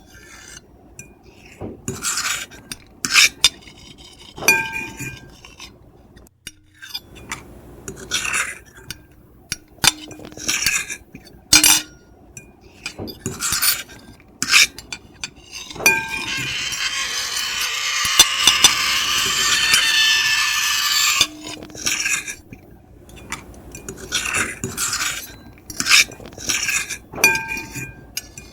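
Fork and knife scraping on a plate in short, irregular strokes, with one longer continuous scrape lasting about five seconds past the middle and a few brief ringing clinks.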